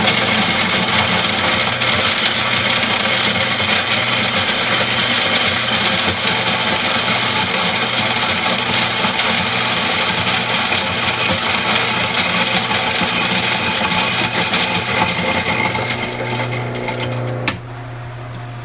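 Electric snow cone machine running and shaving ice: a loud, steady motor whir with grinding ice that stops suddenly near the end.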